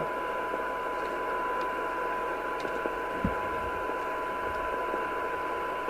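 Amstrad CB901 FM CB receiver playing a steady 1 kHz test tone through heavy hiss. It is a weak signal-generator signal of about 0.3 microvolts, at the 12 dB SINAD sensitivity point. The tone cuts off right at the end.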